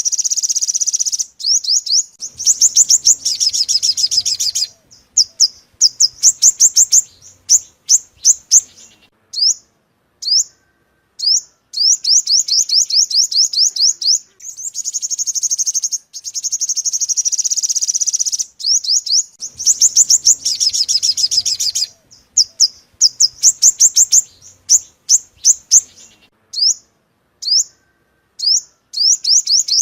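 Yellow-bellied sunbird calling: fast, high-pitched runs of trilled chirps alternating with spaced single sharp chirps. It is a lure call recording, and the sequence repeats in a loop about every 17 seconds.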